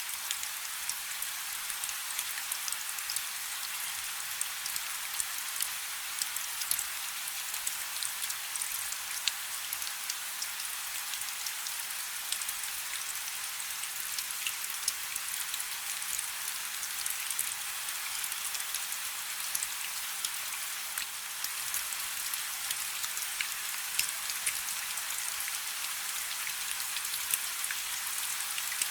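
Steady rain falling on a river: an even hiss of rain, with many individual drops ticking through it.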